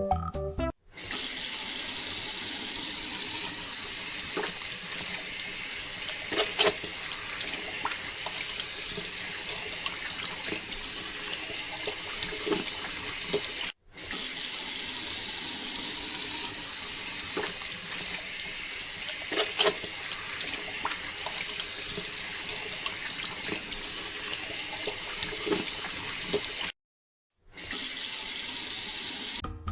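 Water pouring steadily in a continuous rush, which stops abruptly twice for a moment. Two sharp clicks stand out above it.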